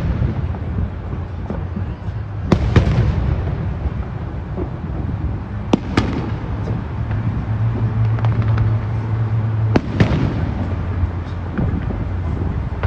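Aerial fireworks display: shells bursting with sharp bangs about 2.5, 6 and 10 seconds in, smaller pops and crackles between them, over a continuous low rumble of booms.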